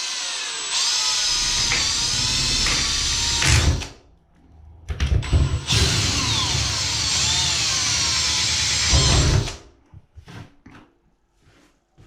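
Power drill boring holes through a fiberglass bathtub at the ends of a crack. There are two runs of about four seconds each, with the motor's whine dipping and rising as the bit cuts. The holes are for injecting expanding foam under the tub to support it.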